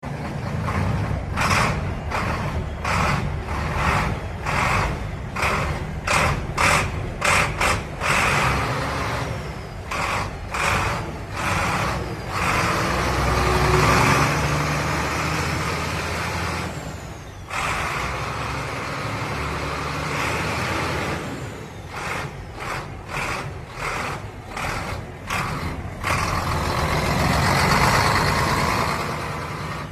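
Heavy truck engine running with a steady low rumble, overlaid by many short sharp sounds at uneven intervals, with a brief drop near the middle.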